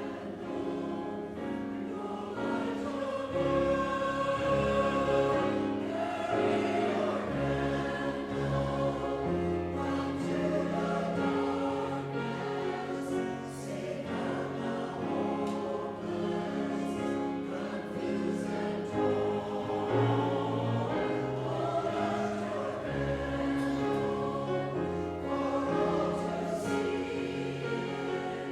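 Church choir singing with instrumental accompaniment, held notes over a moving bass line.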